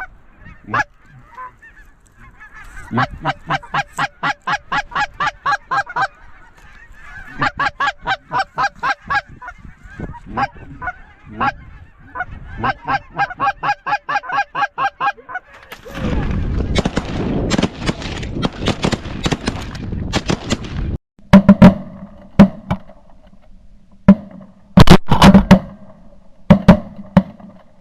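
Goose calling in three quick runs of clucking notes, about eight a second, then a loud rushing noise for about five seconds, then a volley of about half a dozen shotgun blasts from several guns as the geese come in.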